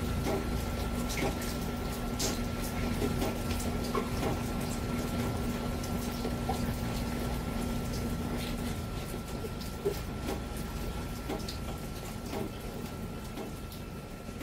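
The tail end of a monsoon rain: light rain and dripping water, with scattered drops ticking, easing off toward the end. A steady low hum runs under it and stops about two-thirds of the way through.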